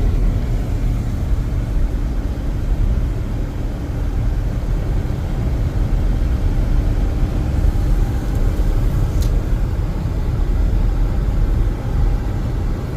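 Steady low rumble of road and engine noise inside a moving car's cabin, its tyres running on a snowy highway. A brief faint tick about nine seconds in.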